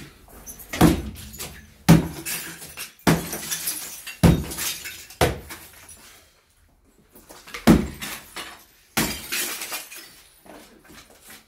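A fireplace being broken apart by about seven heavy blows, each followed by cracking and rattling as pieces break off and fall, with a short pause about two-thirds of the way through.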